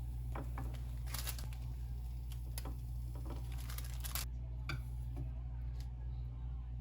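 Steady low hum under scattered light clicks, taps and rustles of handling, which thin out about four seconds in.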